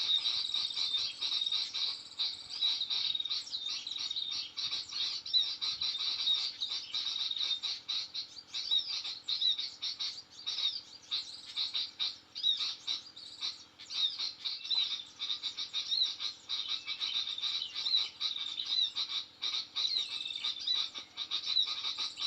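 Dense, continuous high-pitched bird twittering and chirping, many calls overlapping, which starts and stops abruptly.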